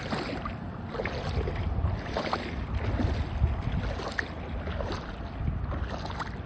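Footsteps wading through shallow water on seagrass flats, sloshing and splashing irregularly, with wind rumbling on the microphone.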